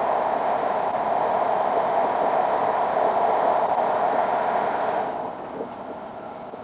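Steady running noise of an E5-series Shinkansen heard from inside the passenger car while it runs through a tunnel. About five seconds in the noise drops sharply and turns softer as the train leaves the tunnel into the open.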